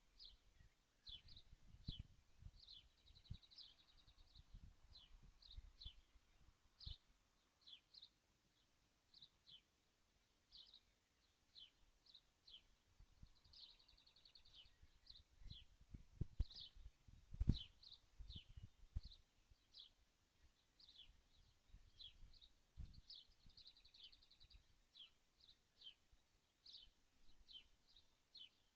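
Faint bird calls: short chirps repeated about twice a second, with a brief buzzy trill three times, about three, fourteen and twenty-four seconds in. Soft low knocks come and go, the loudest about seventeen seconds in.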